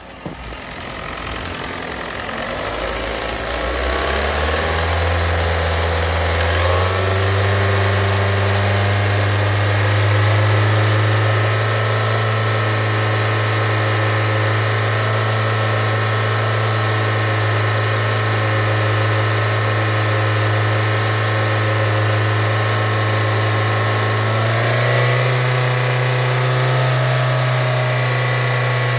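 2019 Kia Forte 2.0-litre four-cylinder engine running on a run test. Its pitch and loudness climb in steps over the first several seconds, then it holds a steady idle and steps up once more about 25 seconds in.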